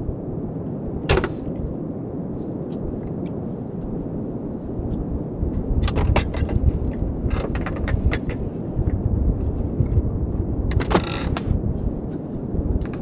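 Strong blizzard wind buffeting the microphone with a steady low rumble, broken by several sharp knocks or clunks about a second in, around the middle, and in a quick cluster near the end.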